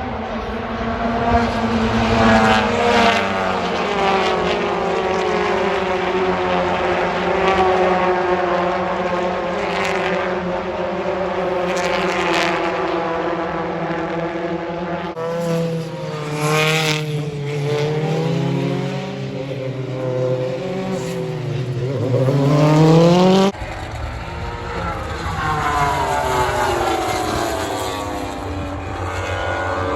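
Racing engines passing at speed on a circuit, several flybys, each engine note bending down in pitch as it goes past. In the middle stretch one engine revs up and drops back in steps, like gear changes, until the sound cuts off suddenly; after that, another pass.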